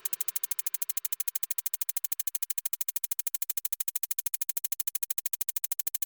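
Rapid, even electronic pulsing, about eleven pulses a second, with no melody, after the backing music has stopped.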